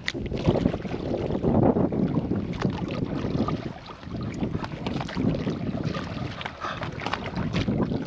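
Water sloshing and splashing around a canoe, with wind buffeting the microphone; the noise swells and eases irregularly, dipping briefly about halfway through.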